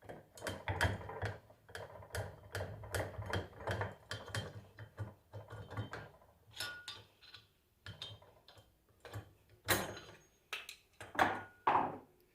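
Metal hand tools clicking and knocking on an alternator as its pulley is worked loose and removed: an irregular run of sharp clicks, a few louder knocks near the end.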